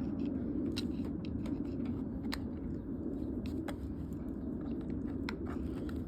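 Knapping a small stone arrowhead (a bird point) with a chipping tool: a dozen or so sharp, irregularly spaced clicks as flakes are pressed off, over a steady low rumble.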